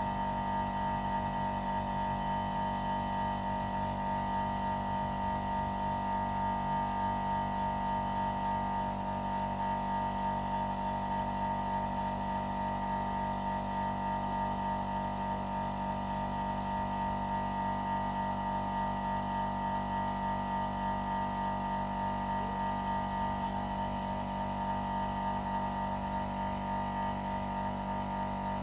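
Homemade quiet air compressor running with a steady, even hum.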